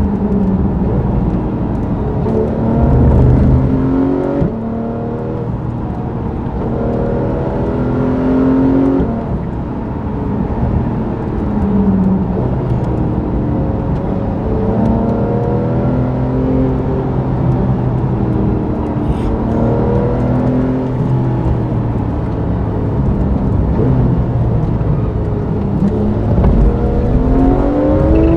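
Porsche 991 GT3's flat-six engine heard from inside the cabin at full track pace, its note climbing in pitch under hard acceleration and dropping back at each shift or lift, several times over.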